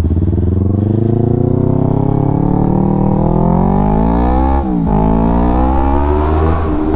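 Yamaha R3's 321 cc parallel-twin engine breathing through an Akrapovic full-system exhaust, accelerating under load. Its pitch climbs, drops sharply once about four and a half seconds in on an upshift, climbs again, then levels off near the end.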